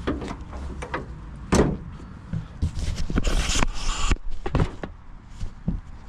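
Scattered clunks and knocks of work on a pickup truck, with a short hissing rush about three seconds in.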